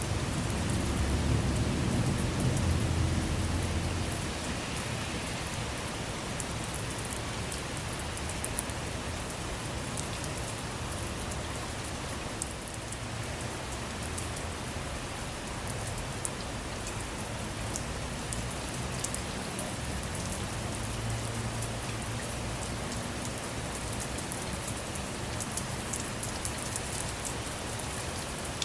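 Steady rain with scattered sharp drop ticks. A low rumble of thunder in the first few seconds is the loudest part, with a fainter rumble about twenty seconds in.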